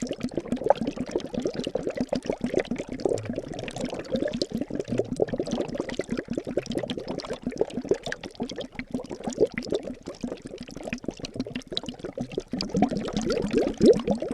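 Liquid bubbling and gurgling without a break, a dense run of small rising bubble sounds that swells louder near the end.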